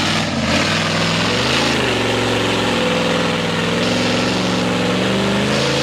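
Mega mud truck's open-header V8 running loud and fairly steady, its pitch dipping briefly about one and a half seconds in, then holding.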